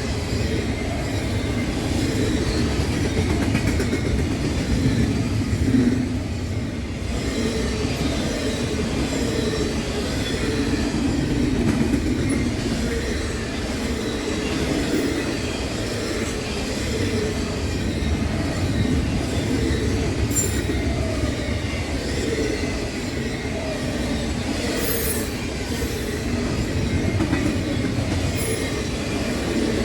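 Freight train cars rolling steadily past, a continuous rumble of wheels on rail. A few brief high wheel squeals come in the last third.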